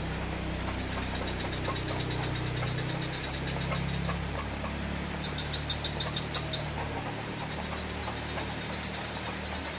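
A motor vehicle's engine running steadily under falling rain; its low hum drops away after about seven seconds. A short run of quick high-pitched ticks comes in the middle.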